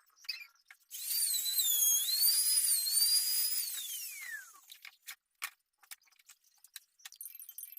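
A small high-speed power tool runs for about three and a half seconds with a wavering whine, then winds down with a falling pitch. Scattered sharp clicks and taps follow.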